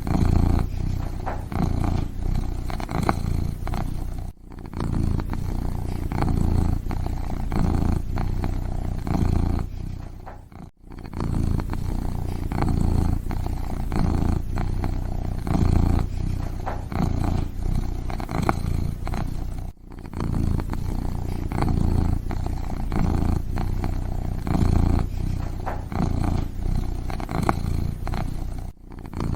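Kitten purring loudly and steadily in a low, pulsing rumble, broken by a few brief pauses.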